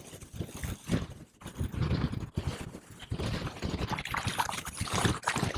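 Wind buffeting the microphone in irregular gusts, with scattered small knocks and scrapes.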